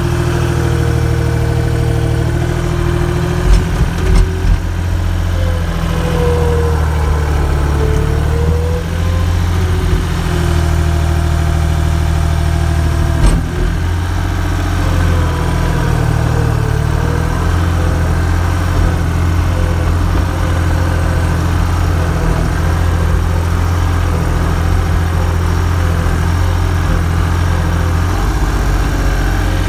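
An engine running steadily at a low idle, with a wavering whine over it and a few sharp knocks about four seconds in and again near the middle.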